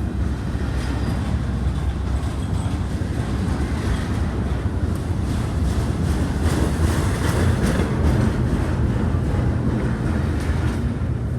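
A train rolling past with a steady low rumble and the clicking of its wheels over the rail joints, the clicks strongest around the middle.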